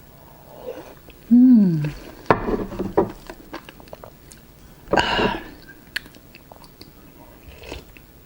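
Close-up mouth sounds of someone eating a raw oyster: wet chewing and small clicks of the mouth, with a short hummed "mmm" falling in pitch about a second in. There is a louder wet mouth noise about five seconds in.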